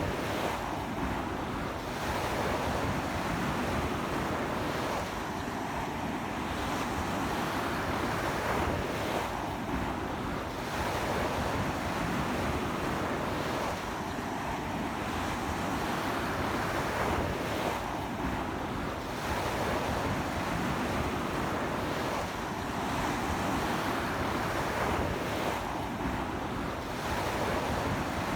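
Ocean surf breaking and washing up a beach in strong wind, the rush of water swelling and easing about every four seconds, with wind on the microphone.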